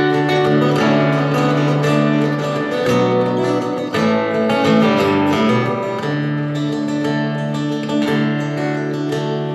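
Acoustic guitar playing an instrumental passage, strummed chords ringing out and changing every couple of seconds.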